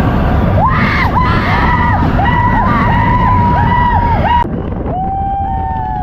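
Roller coaster train rumbling along its track while riders scream, many rising and falling screams over one another. About four and a half seconds in there is an abrupt cut to another shot, with the rumble and a single long held scream.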